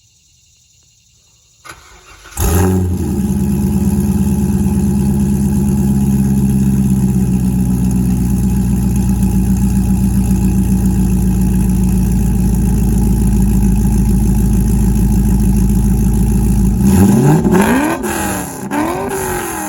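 Chevrolet Corvette engine cold-started: a brief crank, then it catches about two seconds in and runs at a loud, steady idle. Near the end it is revved in a few quick blips that rise and fall before it drops back.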